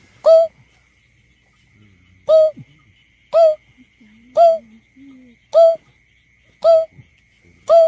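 Greater painted-snipe giving a series of low, hollow hooting notes, seven in all, roughly one a second with a longer pause after the first; each note swoops up briefly at its start. This is the bird's call played as a lure.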